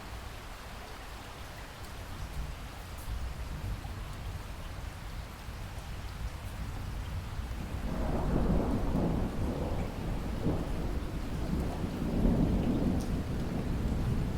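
Steady rain falling, with a low, rolling thunder rumble that builds about halfway through and keeps rumbling to the end.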